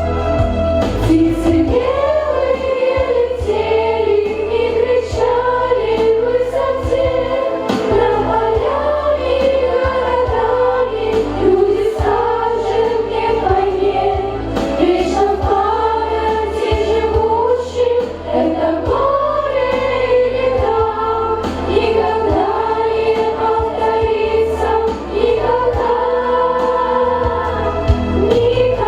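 Choir singing a slow, drawn-out melody without words over a recorded backing track with a steady low bass.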